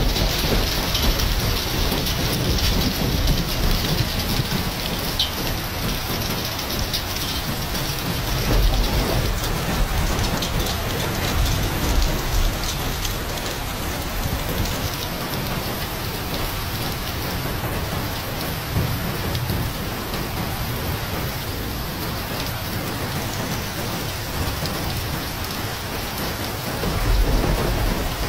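Heavy rain mixed with hail pelting down in a steady hiss, with low rumbles swelling now and then.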